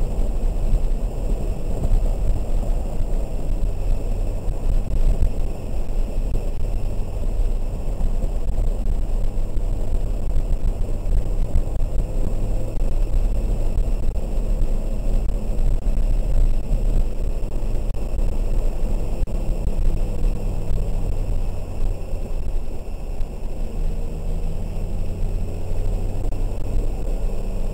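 Engine and road noise inside the cabin of a 2003 BMW 330i ZHP, its 3.0-litre straight-six pulling hard on a wet track, the engine note moving up and down through the lap.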